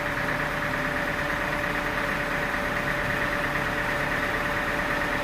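A sawmill's engine running steadily at an even speed, with a constant hum and no cutting strokes or impacts.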